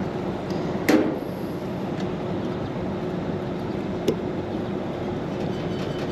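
Steady hum and whir of running rooftop air-conditioning equipment. A sharp metallic click about a second in, and a lighter one about four seconds in, from handling parts in the opened unit.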